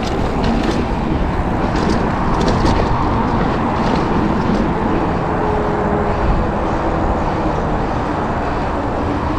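Wind rushing over an action-camera microphone while a mountain bike rolls downhill over dirt and rock, its tyres and frame rattling, with a few sharp knocks about two to three seconds in.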